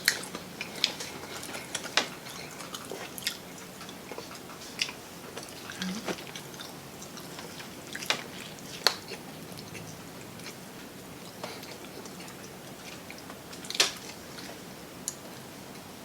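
Close-up eating sounds of people biting and chewing fried chicken, with irregular sharp clicks and crunches; the loudest crunch comes near the end.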